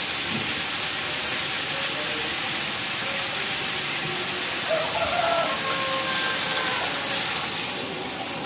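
Tofu in a wok on a gas burner sizzling with a steady hiss.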